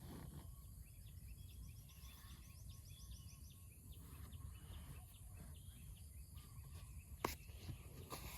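Faint outdoor ambience: a steady low rumble of wind with small birds chirping high and quick, a fast run of short chirps in the first two seconds and scattered calls after, and one sharp click about seven seconds in.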